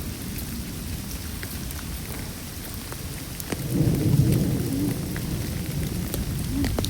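Steady rain falling, with scattered drips. A low rumble swells in about halfway through and then eases off.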